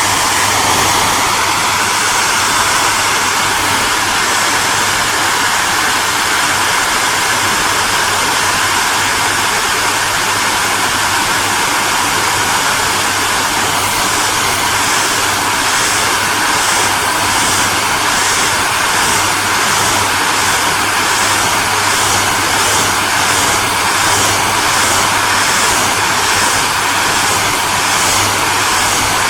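Electric hairdryer running steadily: a constant airflow rush over a low motor hum, with a faint regular pulsing in the high hiss from about halfway.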